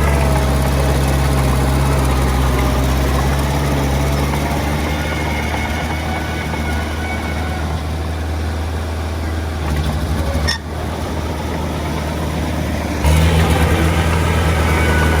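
Diesel engine of heavy earthmoving machinery running steadily at a low, even pitch. It dips briefly about ten seconds in, then comes back louder near the end as the revs or load rise.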